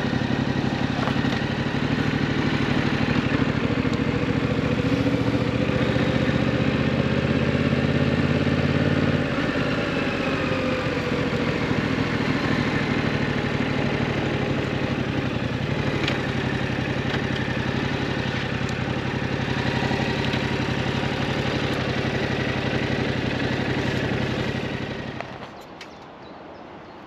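Yamaha MT-07's 689 cc parallel-twin engine idling steadily through its stock exhaust. It is louder for the first nine seconds or so, then settles a little quieter, and cuts off about twenty-five seconds in.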